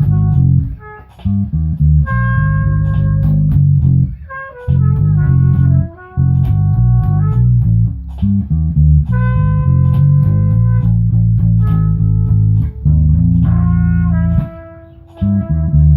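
Instrumental jam: a guitar plays a melody of long held notes over a bass guitar line, with a few brief pauses between phrases.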